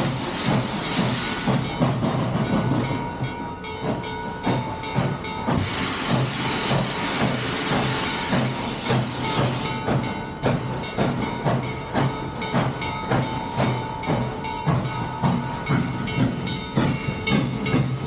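Steam locomotive working, its exhaust chuffing in a steady beat of about two a second, with loud hissing steam at the start and again for about four seconds in the middle.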